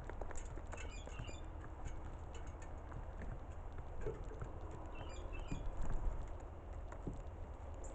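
Birds foraging: scattered light pecking taps over a low steady rumble, with a few faint, short high chirps about a second in and again around five seconds.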